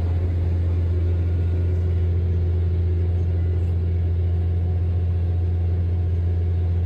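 Tractor engine running steadily, a constant low drone that does not change in pitch or level.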